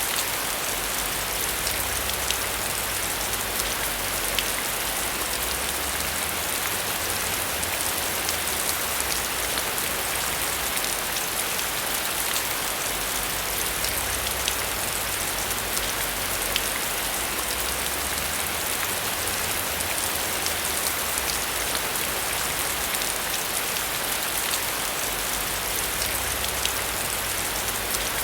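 Steady heavy rain falling, with scattered sharp drop ticks standing out from the continuous hiss.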